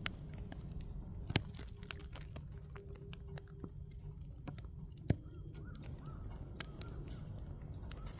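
Firewood burning, crackling with scattered small pops and two louder snaps, about a second and a half in and about five seconds in, over a low steady rumble.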